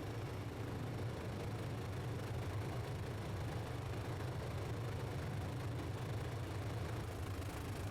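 Helicopter engine and rotor noise heard from inside the cabin: a steady low drone.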